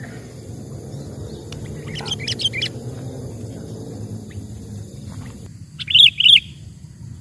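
Sooty-headed bulbul (kutilang) calling: a few short chirps about two seconds in, then two loud, quick calls near the end. A low steady rumble underneath stops abruptly partway through.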